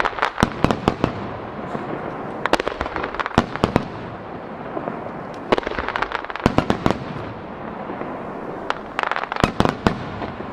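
Star mine fireworks barrage: aerial shells bursting in rapid volleys of sharp bangs. There are four clusters, each a couple of seconds apart, with a steady hiss between the volleys.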